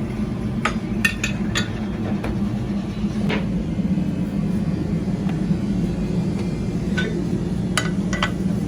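A steady low machine hum with sharp knocks and clinks scattered over it, about eight in all, in a couple of clusters near the start and near the end, like tools striking metal in a workshop.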